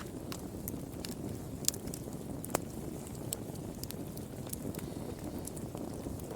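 Wood fire burning in a fireplace: a steady low rumble with irregular sharp crackles and pops, two of them louder about a second and a half and two and a half seconds in.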